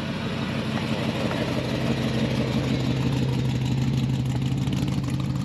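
Car engine idling steadily with an even, low exhaust note.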